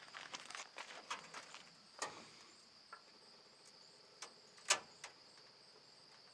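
Scattered light clicks and knocks from work on the truck's rear suspension, with one sharp clack about four and a half seconds in, over a steady high insect chirring.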